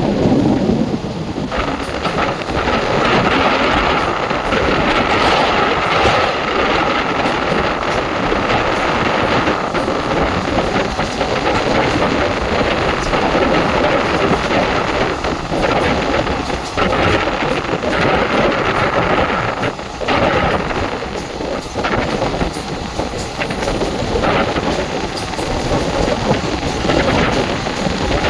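ICF passenger coach running at speed: a loud, continuous rumble and clatter of wheels on the rails, mixed with rushing air. A faint steady hum runs through it for much of the time.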